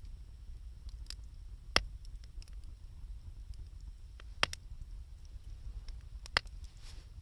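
Wood fire of 2×4 lumber and scrap wood burning, with scattered small crackles and three sharp pops, about 2, 4.5 and 6.5 seconds in, over a low steady rumble.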